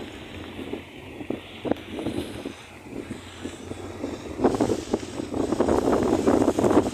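Wind buffeting the microphone in uneven gusts, growing stronger about four and a half seconds in.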